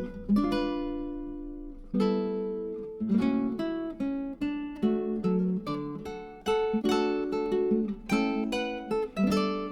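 Background music: acoustic guitar plucking and strumming chords, each note fading away.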